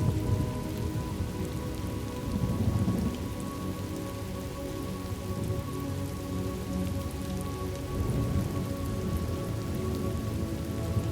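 Steady rain with low rumbles of thunder swelling up twice. Soft sustained notes of a calm music pad are held underneath.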